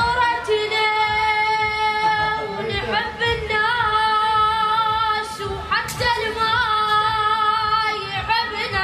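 A high voice singing an Iraqi lament in long held notes with wavering ornamental turns, in two long phrases.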